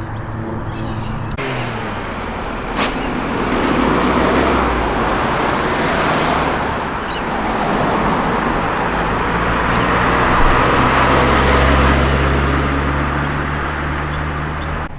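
V8 car engines running at low speed as cars roll past, swelling louder about four seconds in and again past the middle. A single sharp click about three seconds in.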